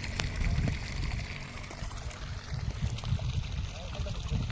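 Water rushing and splashing over a low, uneven rumble.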